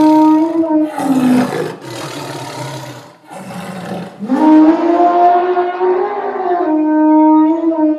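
Animal roars and drawn-out calls, as in a stampede sound effect. A pitched call fills the first second, then comes a rougher noisy stretch that dips briefly about three seconds in. From about four seconds on, one long call is held.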